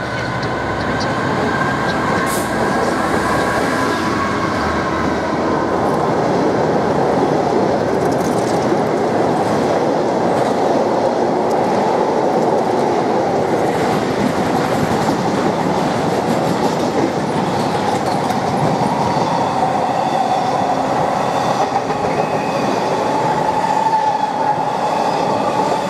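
DB Cargo Class 66 diesel locomotive, with its two-stroke V12 engine, passing, followed by a long rake of empty car-carrier wagons rolling by with a steady rumble and clickety-clack of wheels on the rails.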